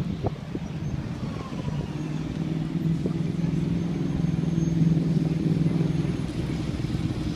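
A motor droning steadily with a low hum, swelling slightly towards the middle before easing off.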